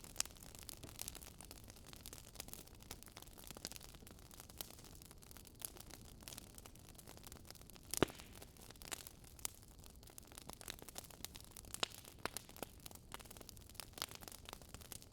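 Campfire crackling: irregular sharp pops and snaps from burning wood over a faint steady hiss, with one louder pop about eight seconds in.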